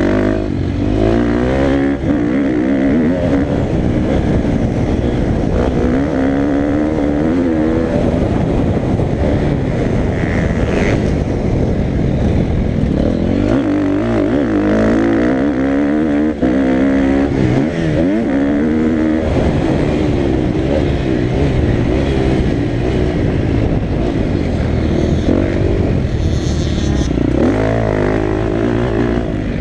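KTM motocross dirt bike engine revving hard, its pitch climbing and dropping over and over with throttle and gear changes as the bike is ridden round the track.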